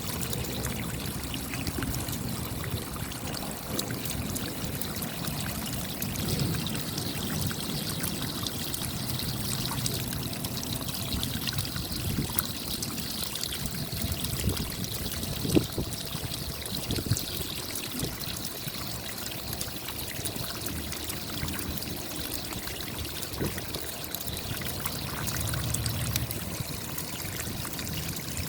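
Rain falling steadily: countless small drop impacts over a continuous wash of water, with a few louder single drops now and then.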